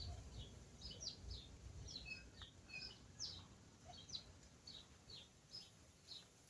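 Faint small-bird chirping: short, high, quickly falling chirps repeated about two or three times a second, over a low rumble.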